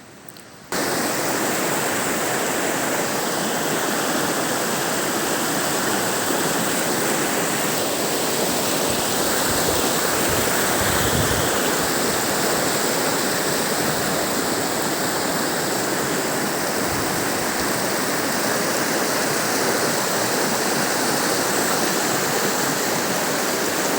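A fast mountain river rushing over rocks: a steady, loud roar of water that cuts in abruptly about a second in and holds evenly.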